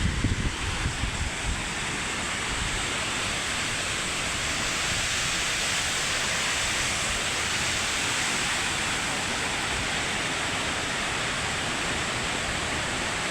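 Steady rush of water falling at Victoria Falls, running at low seasonal flow. A little wind rumble on the microphone in the first couple of seconds.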